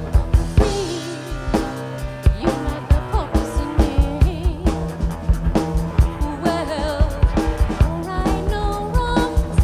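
Live rock band playing a song: a drum kit keeps a steady beat under bass, guitar and a wavering sung melody.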